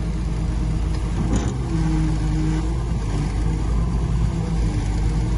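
Diesel engine of heavy earthmoving equipment, a bulldozer or dump truck, running steadily with a deep rumble.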